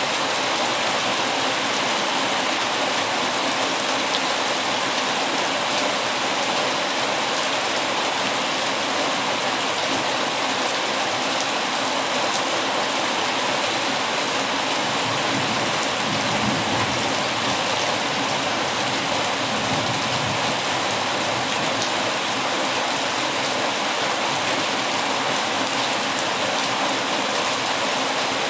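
Heavy rain falling steadily, an even hiss with no breaks or changes.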